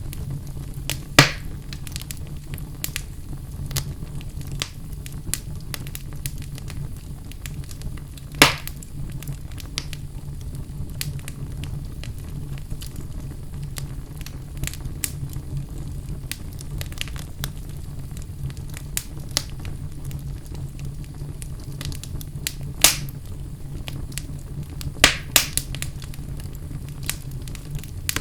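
Wood fire burning in a fireplace: a steady low rush with irregular crackles and snapping pops, a few of them sharper and louder.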